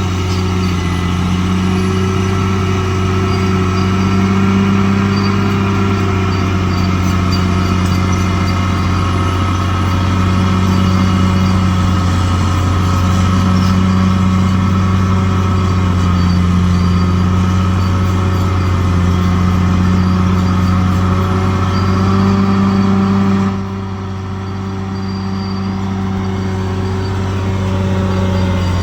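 Large bulldozer's diesel engine running steadily under load, its pitch and loudness rising and easing slowly. About three-quarters of the way through it drops back noticeably, then builds up again.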